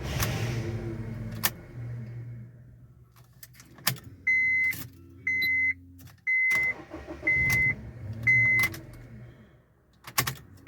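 A Honda Civic's warning chime beeping about once a second, a short high tone each time, starting about four seconds in. A low rumble fades out over the first two seconds, with scattered clicks.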